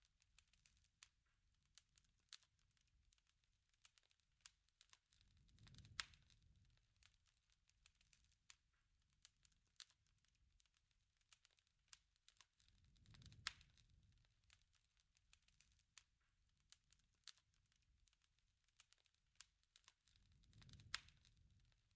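Faint crackling of a wood fire, with irregular pops and snaps. A soft low rush swells about every seven seconds, each time peaking in one loud pop.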